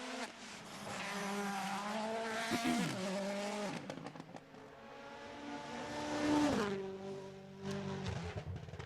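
Rally car engine revving hard, its pitch climbing and dropping with gear changes and throttle, then falling sharply about six and a half seconds in.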